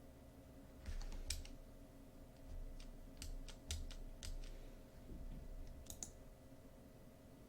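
Computer keyboard and mouse being used: a dozen or so sharp, irregular key taps and clicks, over a faint steady hum.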